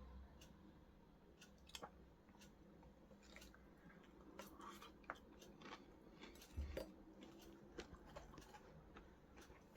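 Faint, scattered crunching and clicking of a person chewing a piece of breaded southern fried chicken, with a soft thump about two thirds of the way through.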